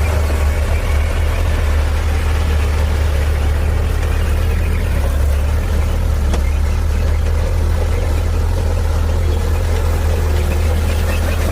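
Heavy diesel earthmoving machine running steadily, a deep, even engine drone.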